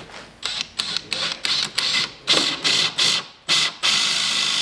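Power drill boring a 2-inch hole into wood, run in short stop-start bursts of rasping cutting noise and then held for a longer run near the end as the bit bites in.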